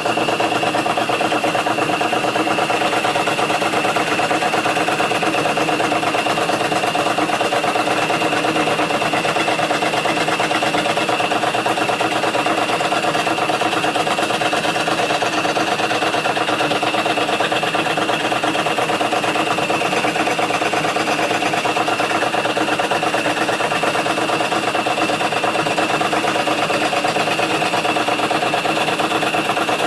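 Wood scroll saw running at a steady speed, starting suddenly at the very beginning, with a steady high whine over the clatter of its reciprocating blade.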